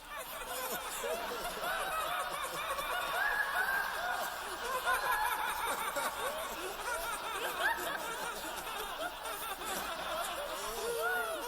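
A group of voices laughing and giggling together, many short chuckles overlapping, fading in at the start.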